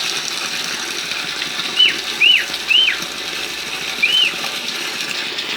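Steady rush of rain and running water. Four short, high chirps that rise and fall come at about two, two and a half, three and four seconds in.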